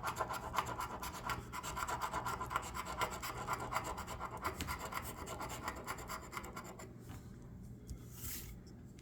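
Coating being scratched off a scratch-off lottery ticket in rapid back-and-forth strokes. The scratching stops about seven seconds in, followed by a brief rustle.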